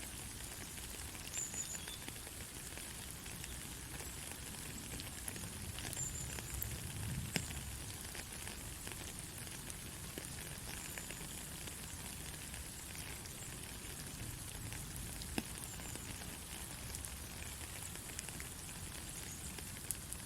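Steady rain falling in a forest, a constant hiss with scattered drops clicking through it. Faint short high chirps come every few seconds.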